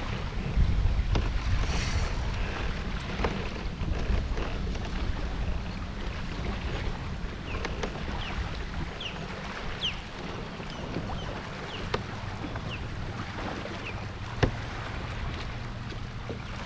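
Wind buffeting the microphone on a kayak, a steady low rumble, with scattered sharp clicks and knocks of gear. There is a run of short high chirps through the middle.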